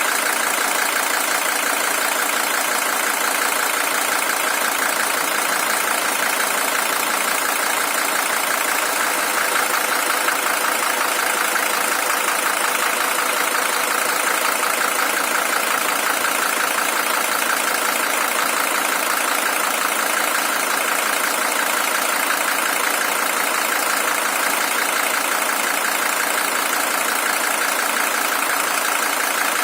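Mercedes-Benz W123 300TD's OM617 five-cylinder diesel engine idling steadily, fully warmed up after more than half an hour of running; the original engine has covered 620,000 km.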